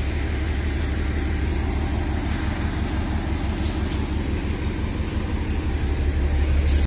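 Kangra Valley narrow-gauge train heard from aboard: a steady low rumble with a thin, steady high whine above it.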